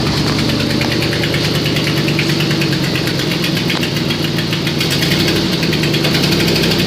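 2007 Mercury Mountaineer's engine idling steadily just after start-up, with a fast even pulsing; the SUV has an exhaust leak.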